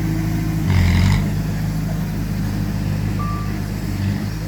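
Heavy diesel engine of an earthmoving machine running steadily, with a brief louder surge of noise about a second in. A single reversing-alarm beep sounds about three seconds in.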